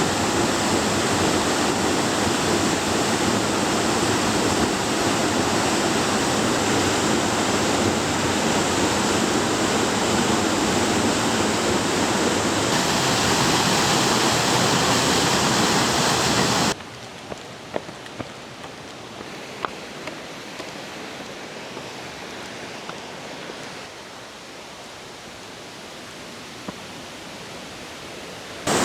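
Waterfall rushing, a steady loud hiss of falling water. About two-thirds of the way through it cuts off abruptly to a much quieter hiss with a few small clicks, and the rushing water returns suddenly at the end.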